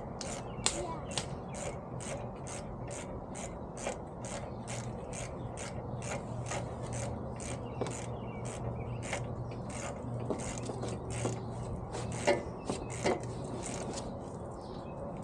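Hand ratchet wrench clicking in steady strokes, about two clicks a second, as a fastener on the intercooler piping is worked. A steady low hum runs underneath, and there is a louder knock about twelve seconds in.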